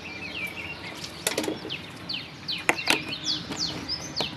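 Small birds chirping over and over in quick downward-sliding calls, with a few sharp knocks or clinks about a second in and twice near the three-second mark.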